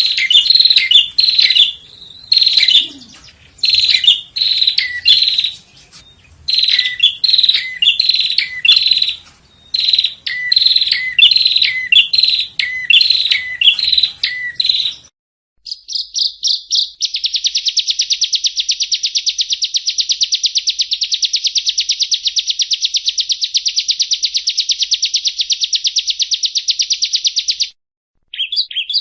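Yellow-bellied prinia (prenjak rawa) singing: quick repeated chirping phrases for about fifteen seconds, then after an abrupt break one long, very fast trill lasting about ten seconds, with the chirping phrases returning near the end.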